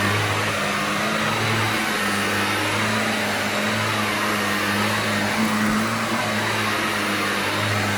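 Shark vacuum cleaner running steadily: a motor hum that wavers slightly in pitch under a loud rushing hiss of air.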